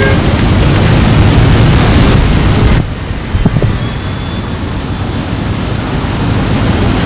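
Loud wind buffeting the microphone, a rough low rumble that eases about three seconds in and picks up again near the end.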